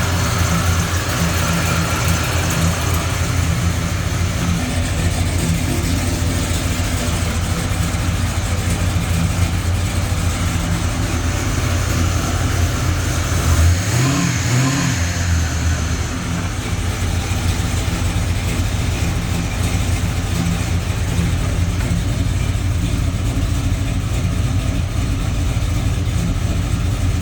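Supercharged 6.2-litre LSA V8 in a box Chevy idling steadily, blipped once about halfway through: the revs climb and fall back to idle.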